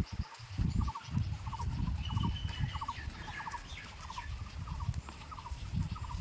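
A bird calling over and over: short, quick rattling notes repeated steadily about twice a second, over a low, uneven rumble of wind on the microphone.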